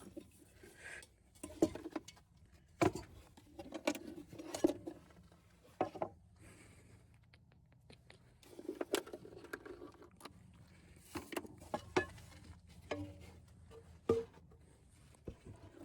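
Camp cooking gear being handled and set out, a pot among it: scattered clicks, knocks and short bursts of rustling and clatter with quiet gaps between.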